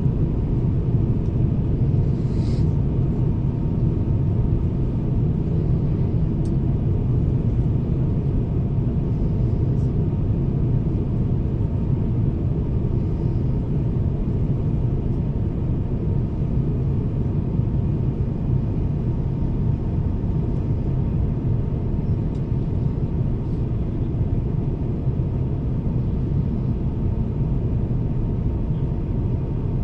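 Steady airliner cabin noise aboard an Airbus A350-1000 in flight: a deep, even rumble of airflow and engines, with a faint steady hum above it.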